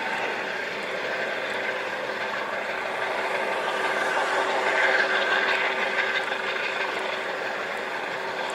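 Helicopter running: a steady engine and rotor noise with a constant hum, swelling slightly about five seconds in.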